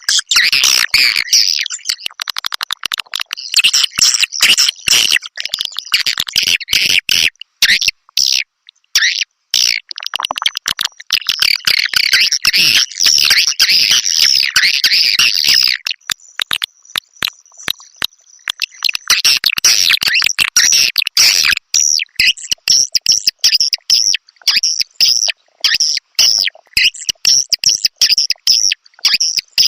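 A recording of swiftlet calls played as a lure for swiftlet houses: rapid, dense chirping and twittering in bouts with short gaps, and a thin steady high tone held for a few seconds just past the middle.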